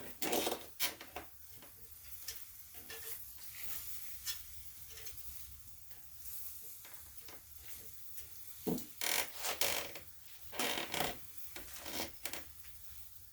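Scraping, rubbing and clinking of utensils on a charcoal grill, in short bursts about a second in and again from about nine to twelve seconds.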